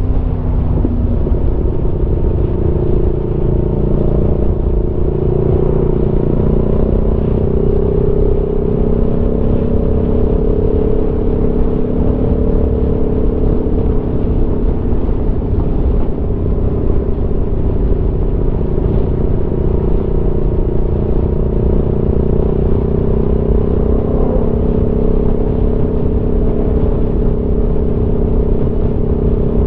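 Aprilia Tuono V4's V4 engine pulling at steady cruising revs, easing off slightly in the first second and then holding an even note, over low wind rumble.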